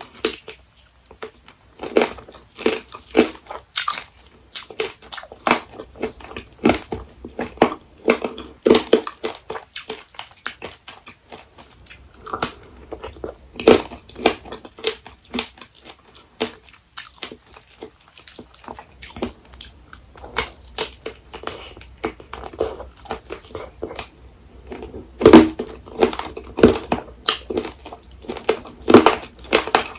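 Close-up chewing of apricot tanghulu: the hard candy shell cracks in a series of sharp, crisp crunches between bites and quieter chewing. There is a quieter pause about halfway through, and the loudest crunches come near the end.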